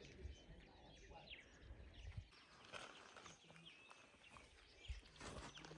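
Near silence: faint bush ambience with scattered short, high bird chirps and a few soft low thumps.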